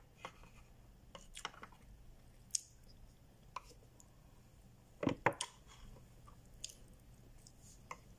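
Close-up eating sounds: chewing, with scattered short clicks and taps of a plastic fork, loudest in a brief cluster about five seconds in.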